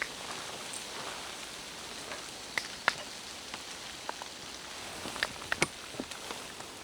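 Steady rain falling through a forest, with a few sharp, scattered taps of individual drops landing close by.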